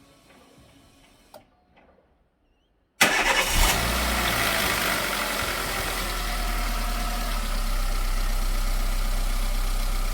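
A few faint clicks, then about three seconds in a 2010 Chevrolet Spark 1.0 engine starts abruptly and settles into a steady idle. This is the first start after an engine oil change.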